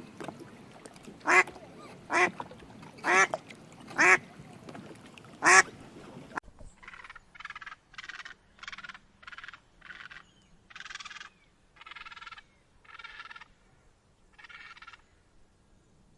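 Ducks quacking: five loud quacks in the first six seconds, then, after an abrupt change, a run of about a dozen shorter, fainter calls.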